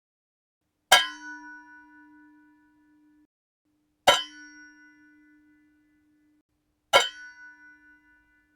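Metal pot lid struck three times, each hit ringing with several clear tones that fade over a second or two, heard at its original pitch.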